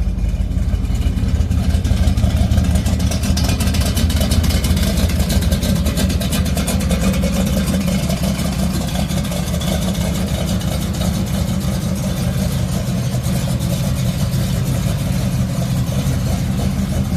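Classic Chevrolet Impala's engine running at a steady idle, a little louder a couple of seconds in.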